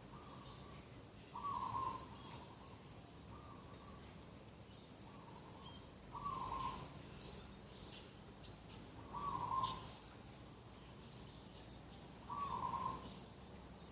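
A dove cooing in short repeated phrases, about one every three seconds, with faint chirps of small birds between them.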